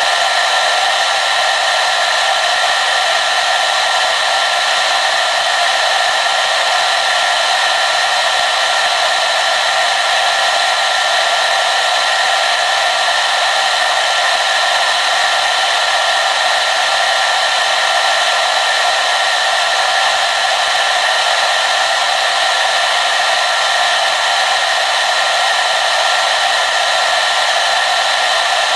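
Hair dryer running steadily: an even, unbroken rush of blown air with a faint motor whine in it, no change in speed or setting.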